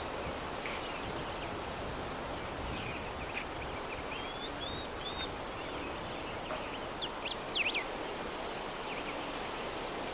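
Soft, steady breeze blowing, with small birds chirping now and then in short high notes, the loudest a quick pair of chirps about seven and a half seconds in.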